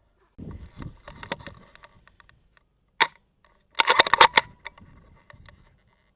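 Handling clicks and rattles of a scope-camera-mounted airsoft rifle, with a single sharp crack about three seconds in and a loud cluster of clicks about a second later.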